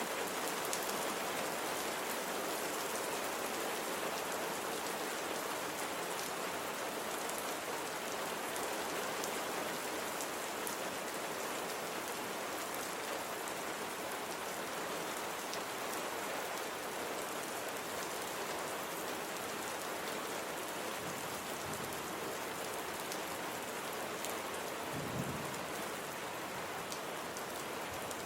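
Steady rain falling: an even hiss with scattered sharp drop ticks. There is one brief low thump near the end.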